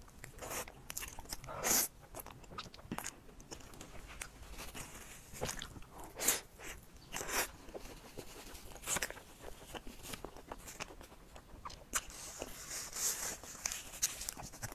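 Close-miked eating of a soft pink cake: a steady run of small wet mouth clicks and smacks while chewing, with a few louder, longer squelches or swallows.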